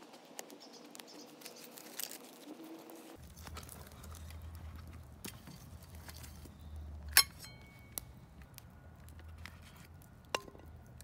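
Scattered small clicks and taps, with one sharp metallic clink about seven seconds in that rings briefly, and another clink near the end.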